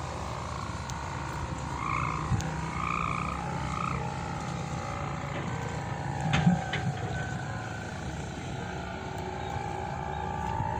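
Pegon kite's long sendaren hummer droning in the wind: a steady buzzing tone that shifts a little lower in pitch about halfway through, over wind rumble on the microphone. A short bump about two-thirds of the way in.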